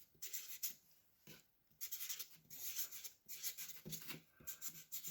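Faint, intermittent rubbing and light ticks of small wooden running-gear parts being handled and shifted by hand.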